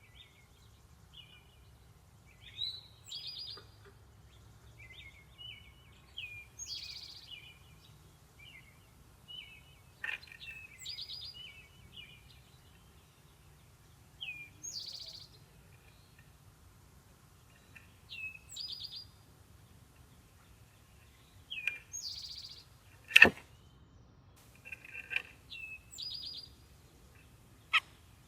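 Songbird singing a short chirpy phrase over and over, about every four seconds, with other scattered chirps between. A single sharp knock about 23 seconds in is the loudest sound, and a lighter click comes near the end.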